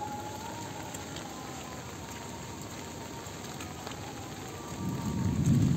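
Steady rain falling, an even hiss with a few scattered drip taps. About five seconds in, a louder low rumble swells up.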